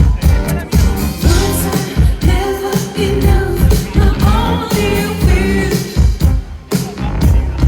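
Live pop-disco song played loud through a festival PA, with a steady dance beat and a woman singing.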